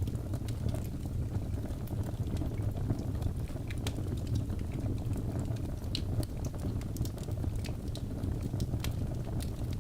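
Birch logs burning in a fireplace: irregular sharp crackles and pops over a steady low rumble.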